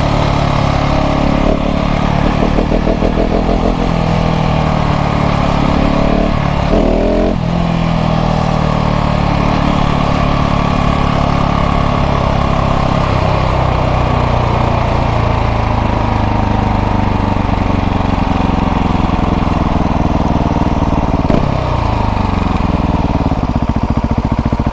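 KTM 690 SMC R's single-cylinder LC4 engine running through a full LeoVince exhaust while riding, its pitch shifting sharply about seven seconds in and again near the end as revs change.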